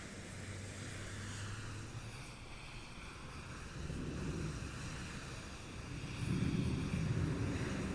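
Jet engine running: a steady rushing noise with a low rumble that swells about four seconds in and again, louder, about six seconds in.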